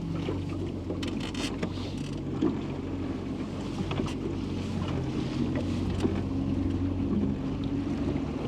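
A boat motor running steadily under way, a low even hum with light wind and water noise over it; it cuts off suddenly at the end.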